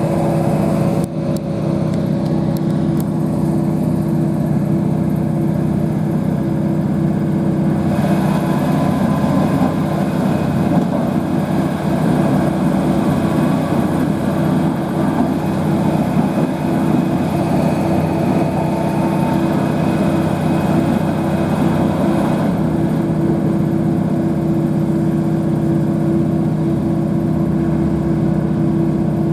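Interior running noise of a Northern Class 156/150 diesel multiple unit under way: a steady underfloor diesel drone with constant low tones, mixed with the rush of wheels on the rails.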